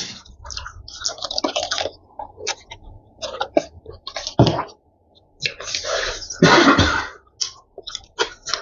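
Close-miked mouth sounds of eating spicy buldak noodles: wet chewing and lip smacks in irregular short bursts, with a longer, louder noisy stretch about six and a half seconds in.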